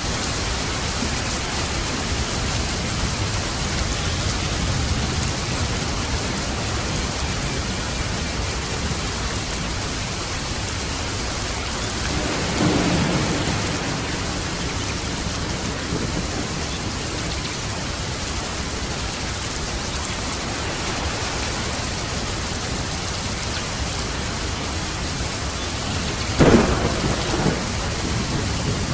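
Steady rain falling, with a low roll of thunder about halfway through and a sharper, louder thunderclap near the end.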